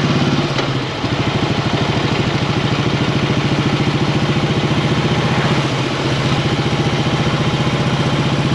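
Motorcycle engine idling with a steady, evenly pulsing beat.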